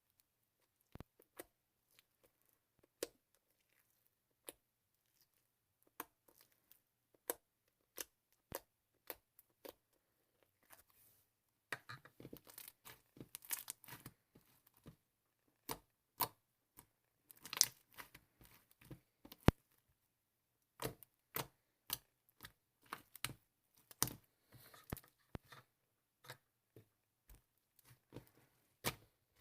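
Handling noise: scattered sharp clicks and taps at first, becoming frequent crinkling and rustling from about twelve seconds in.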